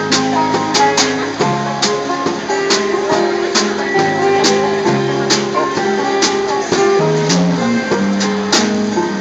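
Live band playing an instrumental passage: strummed acoustic guitar chords over sustained lower notes, with regular percussion hits keeping the beat.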